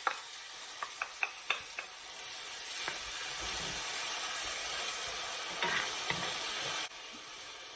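Minced garlic sizzling in a little hot oil in a pan as it is stirred, with sharp clicks of the utensil against the pan in the first few seconds. The sizzle suddenly drops quieter near the end.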